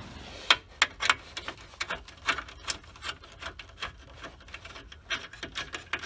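Socket ratchet clicking in short, uneven strokes as a steering-column mounting bolt is backed out, several sharp clicks a second.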